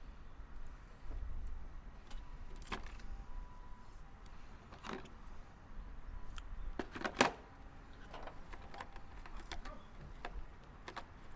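Scattered light clicks and knocks from parts and tools being handled during engine-bay wiring work, with the loudest clatter about seven seconds in, over a faint low rumble.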